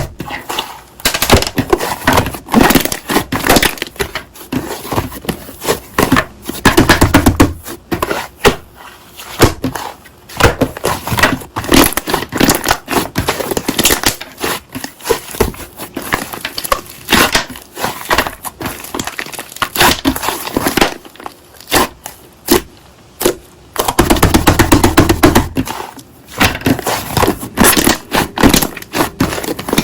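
Slime being squeezed, pressed and poked by hand, giving dense crackling pops and clicks, with heavier bursts of pressing now and then.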